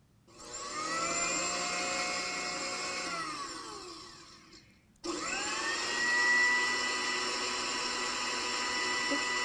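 Electric kitchen blender running twice. It spins up, runs, and winds down with a falling whine, then starts again abruptly about halfway through and runs at a steady high whine.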